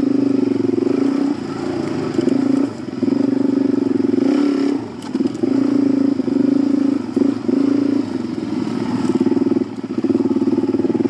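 Dirt bike engine running close by, the throttle opening and closing repeatedly, so the engine note keeps dropping off for a moment and coming back.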